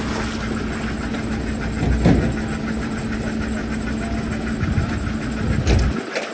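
A heavy vehicle's engine idling steadily, with a knock about two seconds in; the engine sound cuts off suddenly about six seconds in.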